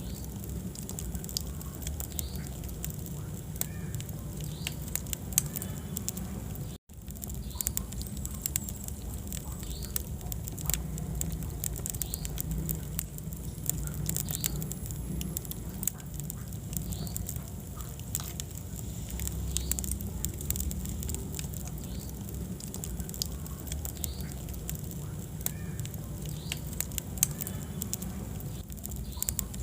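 Wood fire burning in a fireplace, crackling with frequent sharp pops over a steady low rumble of flame. The sound cuts out for an instant about seven seconds in.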